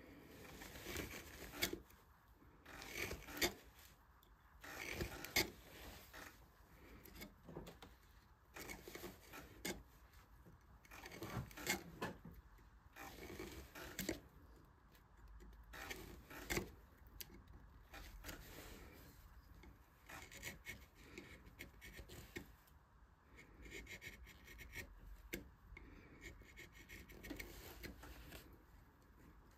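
Hand carving tool scraping and cutting into wood in short, irregular strokes, one every second or two, as a flower relief is carved into a turned wooden vase.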